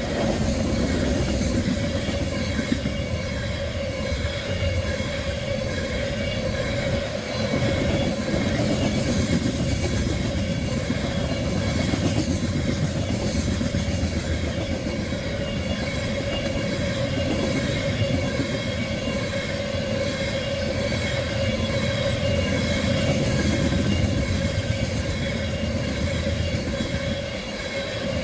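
A freight train of crude-oil tank cars rolling steadily past: a continuous rumble of steel wheels on rail with a steady ringing tone running through it.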